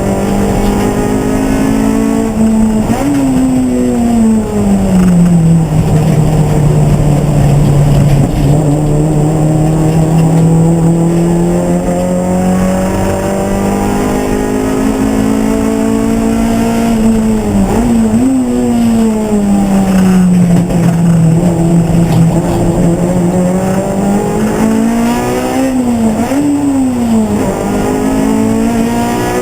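Race car engine running hard under load throughout, its pitch sinking slowly and then climbing again. Short sharp pitch jumps come about three seconds in, around eighteen seconds and twice near the end.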